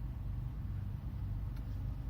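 Suzuki car's engine idling steadily, a low hum heard from inside the cabin while the car stands still.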